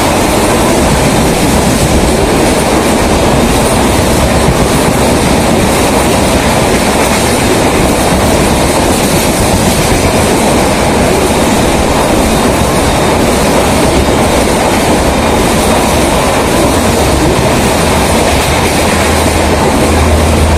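Passenger coaches of an Indian Railways express train running through the station close by: a loud, steady rush of wheels on rail. A deep low hum comes in near the end.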